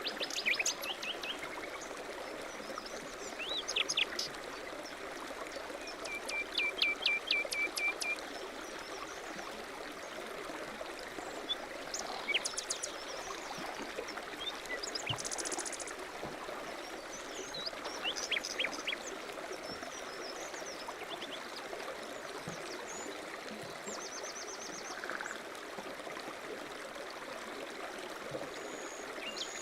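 Stream running steadily with small songbirds chirping over it: short separate calls and a few quick trills scattered through, the loudest a run of high chirps a few seconds in.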